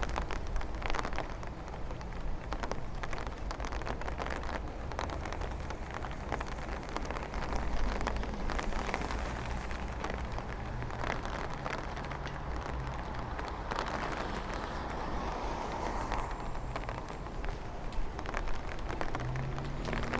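Outdoor street ambience under an approaching thunderstorm: a steady hiss over a continuous deep low rumble, with scattered crackles and a vehicle engine humming by around the middle.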